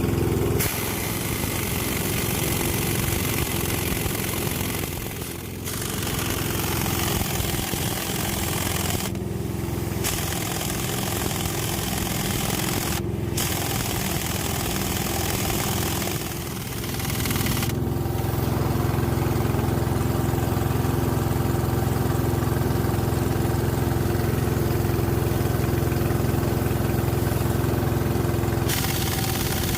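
An engine running steadily, with a deeper, heavier drone setting in about eighteen seconds in.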